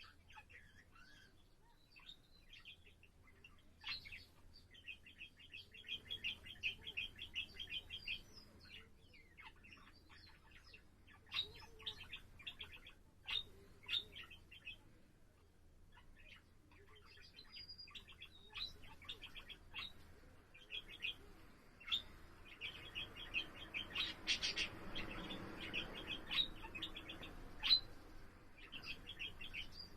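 Budgerigar warbling: a chattering stream of short chirps and clicks, with two long fast runs of chatter, one early on the way in and a louder, fuller one past the middle.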